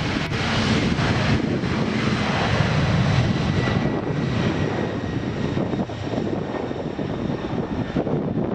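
Airliner engine noise, a steady rushing sound with a low rumble that swells slightly over the first few seconds.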